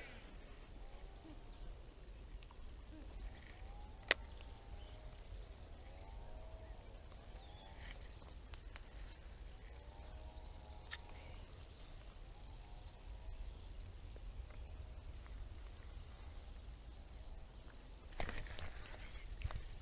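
Faint outdoor ambience with a bird calling again and again in short runs of arching notes, over a steady low rumble. One sharp click comes about four seconds in, and a rustle near the end.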